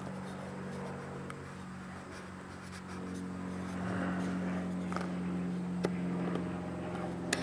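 Steady low mechanical hum, with a few light clicks and scrapes from small parts being handled.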